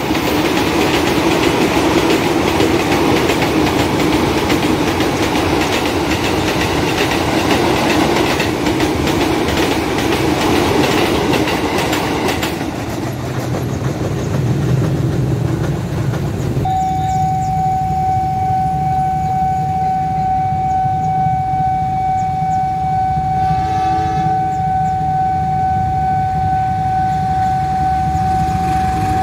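A KRL electric commuter train passes close by, its wheels clattering on the rails. Later a steady high warning tone sounds without a break, with a short train horn blast about two-thirds of the way through.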